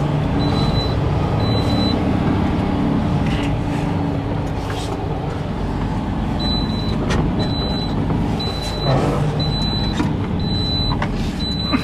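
Semi truck's diesel engine running steadily, heard from inside the cab. A short high electronic beep repeats about once a second for the first two seconds, stops, and starts again about six and a half seconds in. There are a few light clicks.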